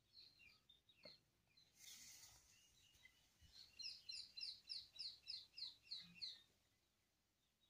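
Faint bird chirping: scattered high chirps, then a quick run of about a dozen evenly spaced chirps in the middle. A brief rustle about two seconds in.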